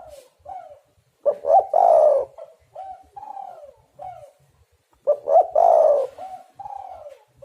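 Spotted dove cooing: two song phrases about four seconds apart, each a few quick notes, then one long loud coo and a string of shorter falling coos.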